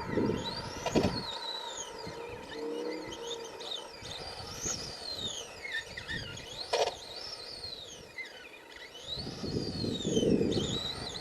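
Electric RC monster truck's Traxxas 12-turn brushed motor whining as the throttle is worked, the pitch rising and falling over and over. Low rumbling comes and goes near the start and again near the end.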